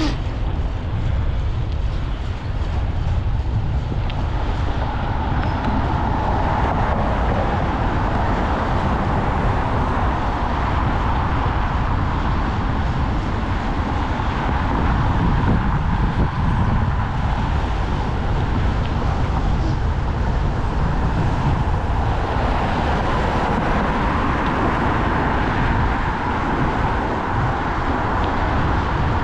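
Wind rumbling on an action camera's microphone during a bike ride, mixed with steady road and traffic noise; a hiss joins about four seconds in and carries on.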